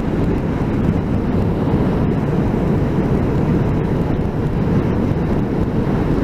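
Steady rumble of a motorcycle under way, engine and wind noise heard through a microphone inside the rider's helmet, even in level throughout with no distinct engine note standing out.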